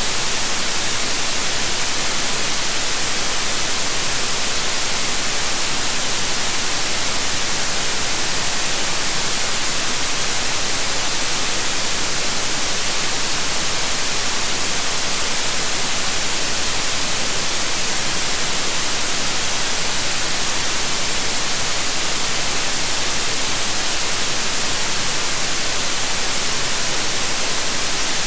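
Steady, electronically generated white noise: an even, unchanging hiss, strongest in the upper range.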